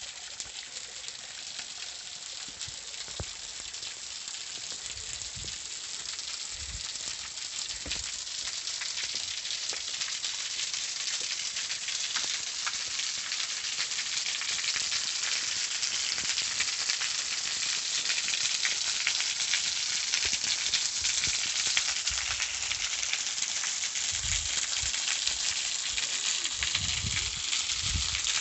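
Waterfall: a steady rush of falling water that grows gradually louder, with a few low thumps near the end.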